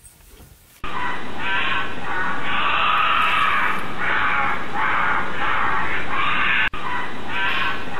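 Coati giving harsh, high-pitched squealing calls in rapid repeated bursts, starting abruptly about a second in and breaking off for an instant near the end.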